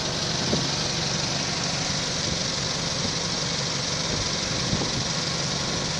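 Toyota Camry engine idling with a knock, with a couple of sharper knocks standing out; the uploader puts the knock down to a bad head gasket.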